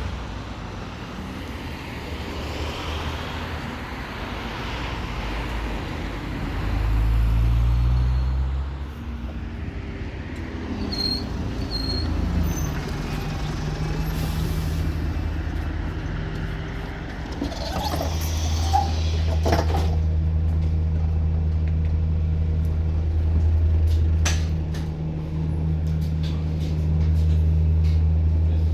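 A bus's engine heard on board, pulling away and accelerating with a whistle from the turbocharger, then running steadily. Two short high beeps sound near the middle, followed by a brief hiss of air.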